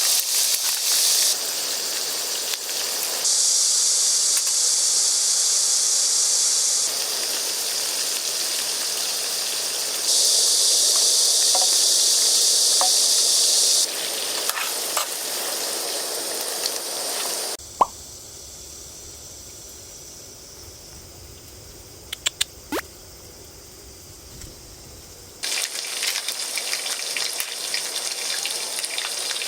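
Steady hissing noise in several abruptly changing stretches, some with a bright high-pitched band on top. About 18 seconds in it drops to a quieter stretch with a low hum and a few light clicks, and the louder hiss comes back near the end.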